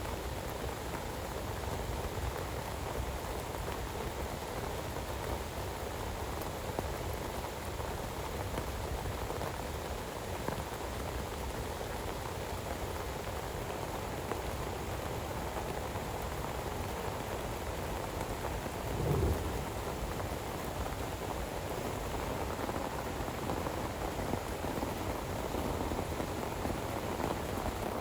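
Heavy rain falling steadily, with one brief low thump or rumble about two-thirds of the way through.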